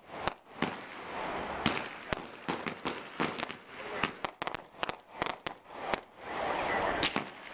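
Aerial fireworks shells bursting in quick succession: many sharp bangs, thickest in the middle, with a rushing noise between them.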